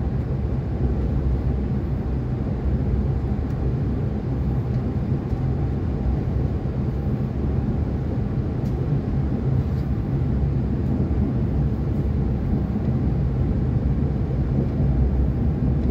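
Steady low rumble of an ETS electric train running, heard from inside the passenger cabin, with a few faint clicks.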